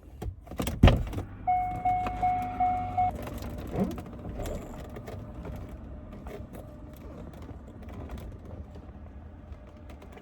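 A thump inside a car, then the car's warning chime beeping quickly about five times over a low steady hum.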